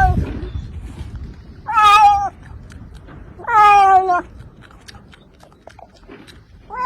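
A domestic cat meowing: two drawn-out meows, each about half a second long and falling in pitch, a couple of seconds apart, with a third starting right at the end.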